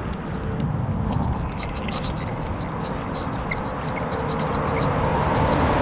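Small birds chirping in quick short high notes over a steady low outdoor rumble.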